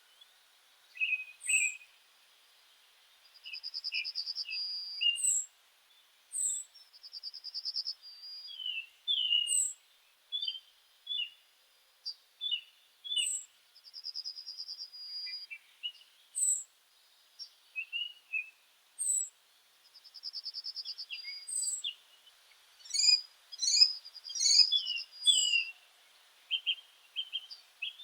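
Several meadow songbirds singing together: short high notes repeated every second or two, a buzzy trill that comes back about every five seconds, and scattered chirps. A denser, louder flurry of calls comes near the end.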